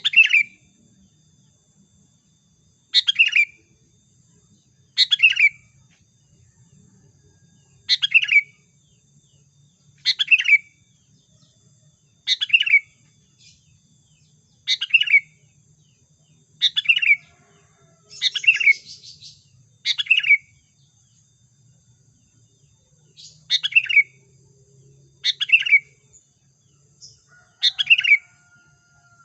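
Sooty-headed bulbul (kutilang) giving the same short call over and over, roughly every two seconds, each call dropping quickly in pitch. It is a lure call, a female calling males.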